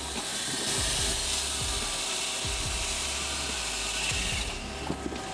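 Firewood processor's saw cutting through a log: a steady hiss that lasts about four seconds and stops near the end.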